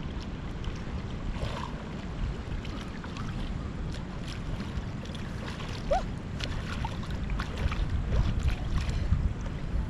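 Wind buffeting the microphone, with light splashing and lapping of lagoon water throughout and a brief high rising chirp about six seconds in.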